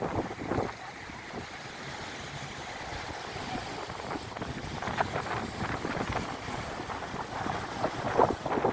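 Wind buffeting the microphone in uneven gusts, over a steady rush of surf.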